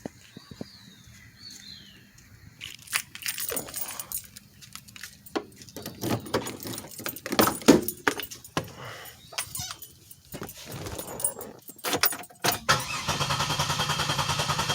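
Clicks, clunks and keys being handled, then about thirteen seconds in the starter begins cranking a 2007 Pontiac Grand Prix GT's engine: an even, rapid churning that does not catch. It is the crank-no-start fault the owner is chasing.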